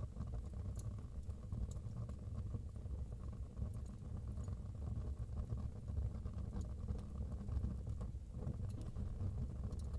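Wood fire burning in a fireplace: a steady low rumble of the flames with sparse, faint crackles and pops every second or two.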